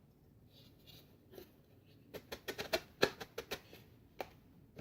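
Light clicks and taps of 3D-printed plastic parts being handled and fitted together, in a quick run from about two seconds in, with one more click near the end.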